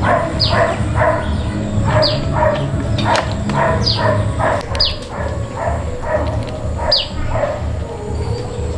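Repeated animal calls, about one a second, each a short cry falling in pitch, with a steady low rumble underneath.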